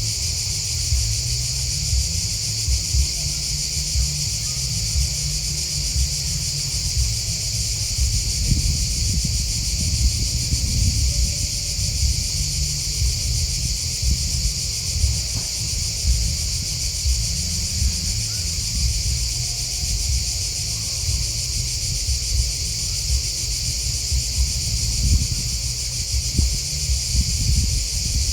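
Steady, unbroken high-pitched chirping of a chorus of field insects, crickets and grasshoppers, with an uneven low rumble underneath.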